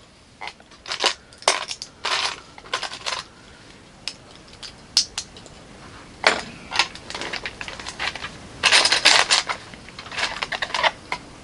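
Plastic LEGO bricks clicking and clattering as pieces are picked through and snapped together, in short flurries of rapid clicks every second or two, busiest about nine seconds in.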